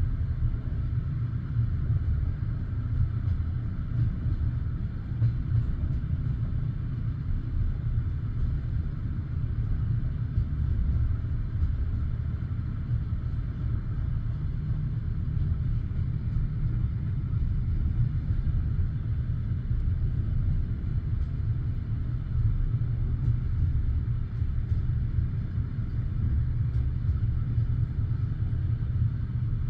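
Steady low rumble of a passenger railway carriage running along the track between stations, heard from inside the carriage.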